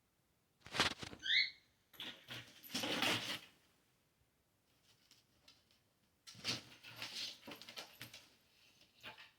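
Kittens scampering and tussling, their paws pattering and scuffling in three irregular spells, with a short high squeak about a second in.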